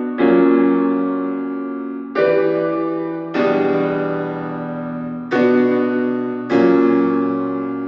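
Background music: sustained piano chords, a new chord struck every one to two seconds, each ringing and slowly fading until the next.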